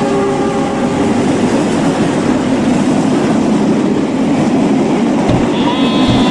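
Diesel locomotive running, a loud steady rumble, with a short horn-like tone near the end and a couple of low thumps just before it.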